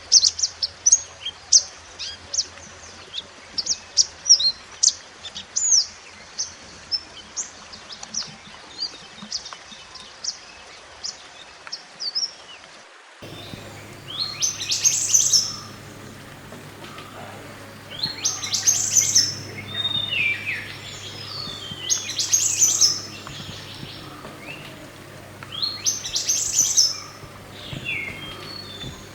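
Mantenan gunung birdsong. First come rapid, closely spaced high chirps. About midway, after a splice in the recording, longer song phrases of quick descending notes repeat roughly every four seconds over a steady low hum.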